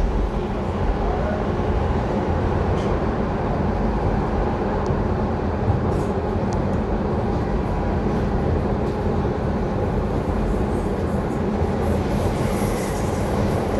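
Docklands Light Railway train running, heard from inside at the front: a steady rumble of wheels on rail with a few faint clicks, and a higher hiss coming in near the end.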